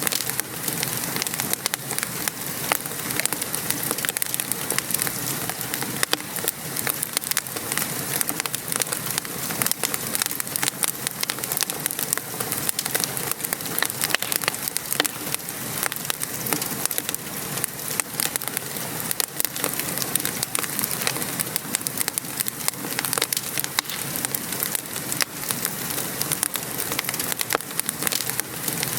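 Steady rain falling, mixed with a wood fire crackling in many small, irregular pops.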